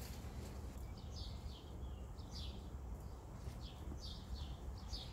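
Birds chirping faintly, a string of short high chirps every half second or so, over a low steady rumble.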